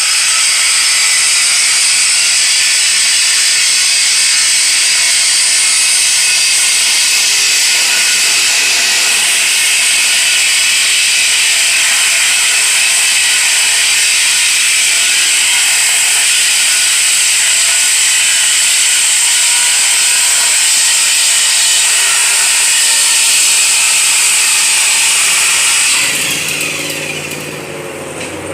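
A power tool running steadily with a loud, high, hissing sound, which stops about 26 seconds in; a quieter low, engine-like hum is left near the end.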